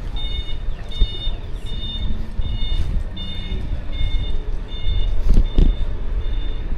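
Electronic warning beeper, like a vehicle's reversing alarm, sounding a steady train of short high beeps about two a second, over a steady low rumble of wind and road noise from the moving e-bike.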